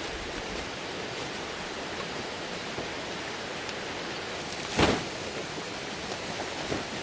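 Steady rushing outdoor noise, with one sharp knock a little after the middle.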